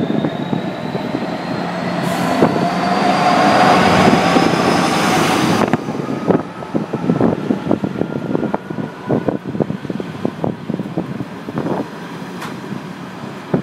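Train moving through a station, with a rising whine over a rush of noise that cuts off suddenly after about five seconds. Then comes a long run of sharp clicks and knocks from the wheels passing over rail joints and points.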